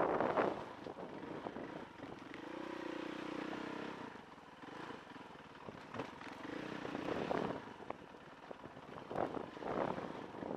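Dirt bike engine running at low revs, its pitch rising and falling as the throttle is worked, with gusts of wind noise on the microphone.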